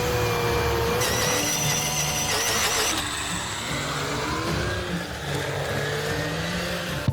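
Engines of heavy machinery running, with wavering pitch, cut together from several clips so the sound changes abruptly about a second in and again about three seconds in.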